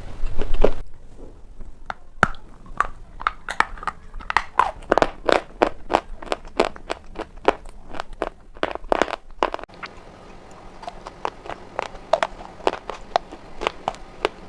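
Black shale stone being bitten and chewed: a long, irregular run of sharp crunches, about two to three a second, with a brief lull about two-thirds of the way through. A short low rumble comes at the very start.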